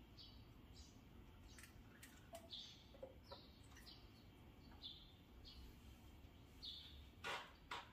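Faint, short bird chirps repeating about once or twice a second, with two sharp clicks near the end.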